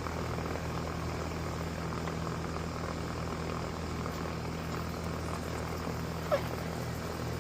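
Air-conditioning unit running: a steady electric-motor hum under the even whoosh of its fan. A brief high chirp sounds about six seconds in.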